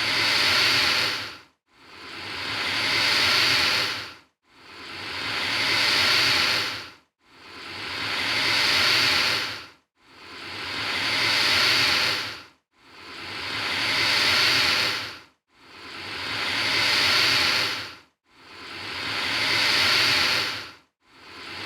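Alligator hissing, the same hiss repeated over and over, about eight times, each one swelling up for a couple of seconds and then cutting off short.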